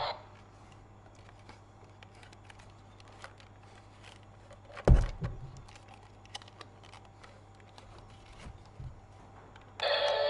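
Scattered small clicks and taps of plastic toy parts and packaging being handled, with one louder thump about halfway through.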